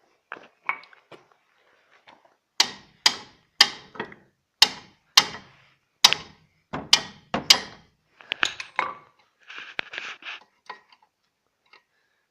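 Metal hand tools working on a car's wheel hub: a run of sharp metallic clicks about two a second for several seconds, then a shorter rattling clatter.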